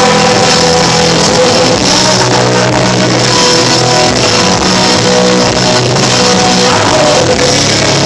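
Live rock band playing an instrumental passage with electric guitar, loud and steady, recorded on a phone in the audience.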